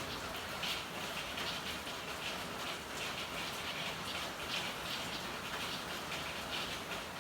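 Steady rain falling, with a dense, irregular patter of drops.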